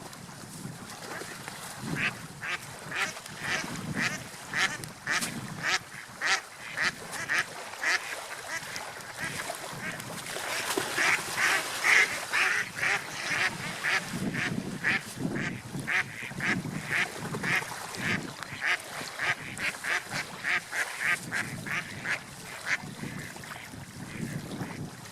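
Ducks quacking in a long, rapid run of short calls, about three a second, loudest about halfway through and stopping just before the end.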